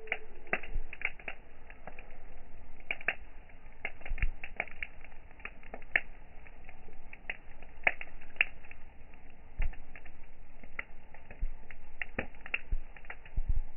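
Campfire crackling: burning wood giving off irregular sharp pops and snaps, several a second, over a low steady hiss.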